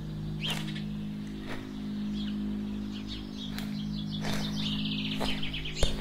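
Small birds chirping and trilling over a steady, sustained low drone of background music, with a sharp tap near the end.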